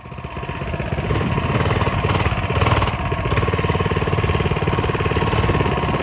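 Coleman mini bike's small single-cylinder four-stroke engine running with a fast, even putter. It comes in suddenly and settles to a steady run within the first second.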